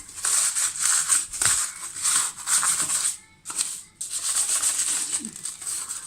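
Stiff brush scrubbing a plastic mesh dishwasher filter in quick back-and-forth strokes, about three a second, with a short pause about three seconds in.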